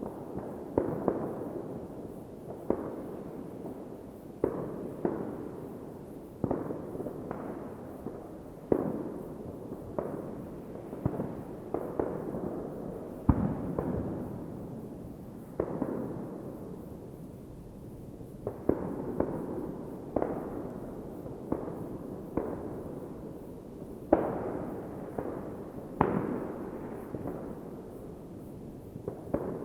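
Fireworks going off: a sharp bang every second or two, each trailing off in echo, over a continuous low background of more distant bangs.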